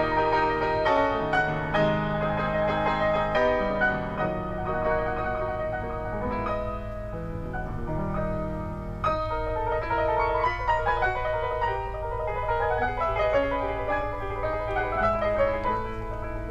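Piano music, with notes and chords played in flowing runs over a steady low hum.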